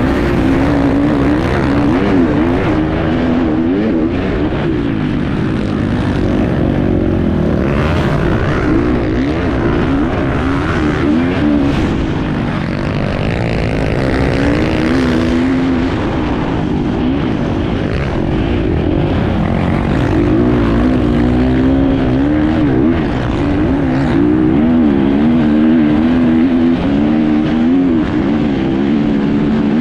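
Enduro motorcycle engine heard on board, its revs rising and falling again and again as the throttle is worked.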